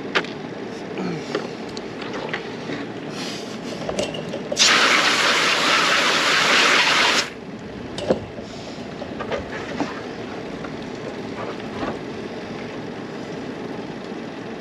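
A burst of water spraying from a hose at a fish-cleaning table: a loud, even hiss that starts suddenly about four and a half seconds in and cuts off about two and a half seconds later. Under it is a steady background rumble with scattered small knocks.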